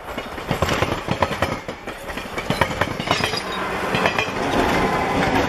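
Passenger train passing close at speed, its wheels clicking and clattering over rail joints. From about four seconds in, a locomotive at the rear of the train goes by with a louder, steadier hum.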